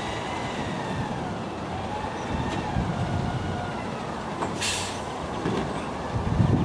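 Garbage truck working: a steady mechanical hum with faint whining tones that rise and fall in pitch, and a short hiss of air about four and a half seconds in.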